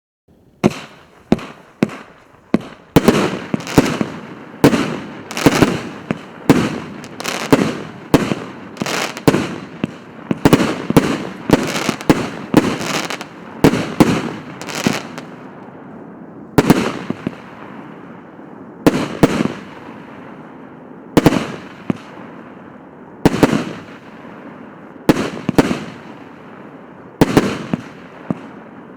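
1.2-inch, 150-shot firework cake firing, a sharp bang for each shot followed by a fading crackle. The shots come a little more than one a second at first, then slow to about one every two seconds from the middle on.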